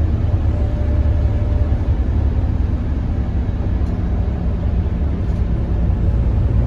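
Scania K94IB bus's diesel engine running steadily while the bus is under way, a low rumble with road noise that shifts slightly in pitch.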